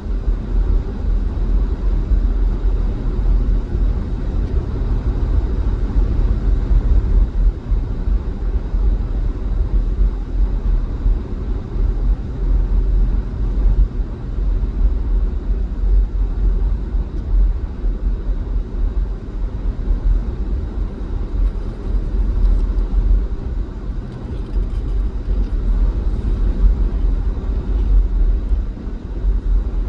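A vehicle driving on a highway: a steady low rumble of engine and tyre noise, with no distinct events.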